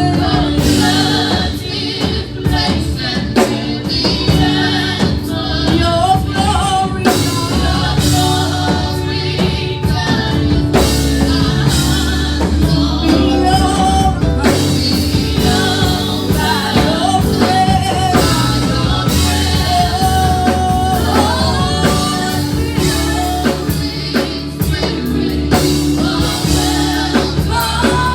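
Gospel worship music: a band with a drum kit playing under singing.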